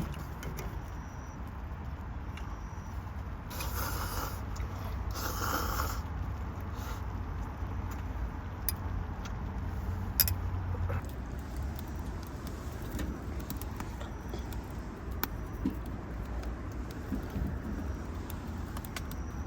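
Wood campfire crackling with scattered sharp pops over a steady low rumble, with two short hissing bursts about four and five seconds in.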